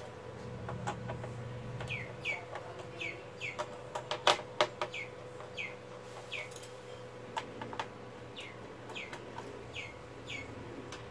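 A bird calling over and over in the background: short, falling chirps, often in pairs. Sharp metallic clicks from screws and a screwdriver on the TV's sheet-metal back frame are loudest about four seconds in. A faint steady hum runs underneath.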